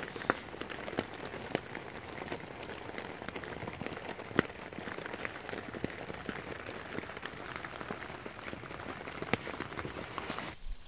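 Rain pattering on tent fabric: a steady hiss dotted with irregular sharp drop ticks, one louder tick about halfway through.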